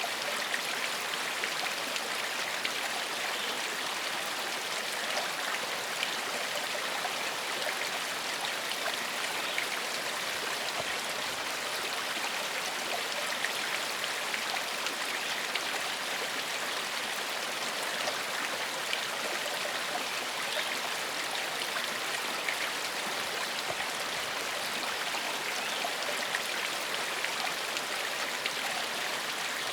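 Gentle forest stream flowing over rocks: a steady rush of water with fine splashing and trickling.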